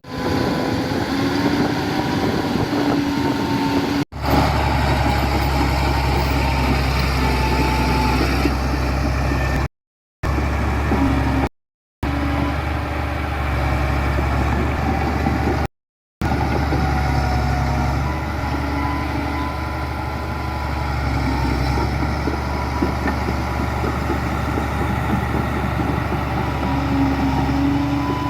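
Diesel engines of heavy construction machinery running steadily at work, a strong low rumble with a few faint whining tones above it. The sound cuts out abruptly for a split second three times.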